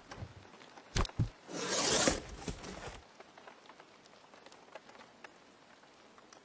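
Two light knocks about a second in, then a rustling, scraping noise for about a second and a half, followed by faint light pattering.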